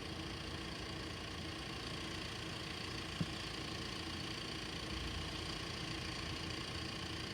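An engine idling steadily, with a brief knock about three seconds in.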